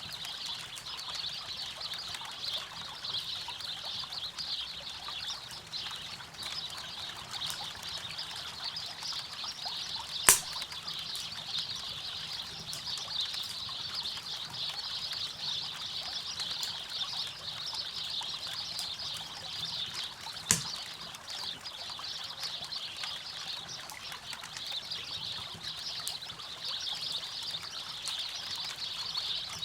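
A steady trickle and rush of river water, with two sharp pops from the campfire's burning wood, about ten seconds apart.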